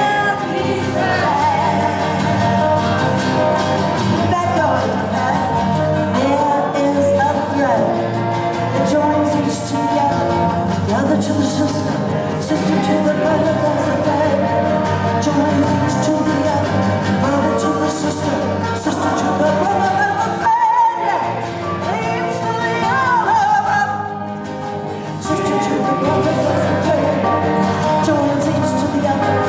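Live song: a woman singing with guitar accompaniment, with a very brief break about two-thirds of the way through.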